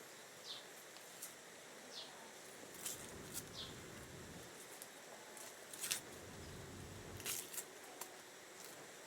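Irregular short, sharp clicks and snaps, about eight in all, a few with a brief falling high note, over a faint steady hiss.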